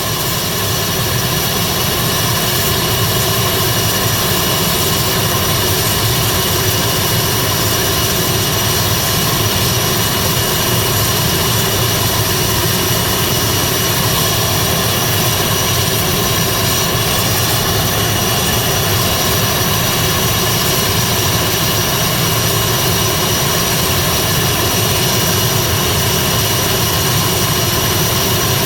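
ATR 72-600's Pratt & Whitney PW127M turboprop engine running steadily during a post-maintenance ground run-up: a loud, even propeller and turbine roar with a high, constant whine.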